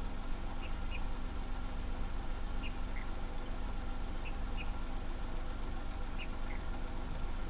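Car engine idling with a steady low rumble, under short high chirps from a small animal that repeat, mostly in pairs, about every second and a half.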